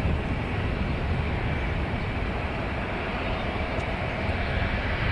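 Airliner engine noise: a steady broad rumble and hiss that eases a little in the first second, then holds steady.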